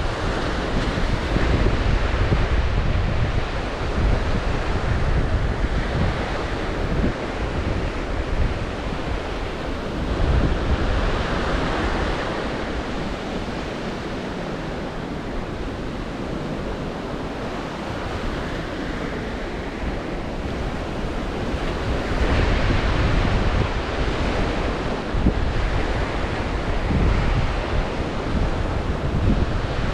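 Black Sea waves breaking and washing on the shore in surges every few seconds, with strong wind buffeting the microphone as a low rumble.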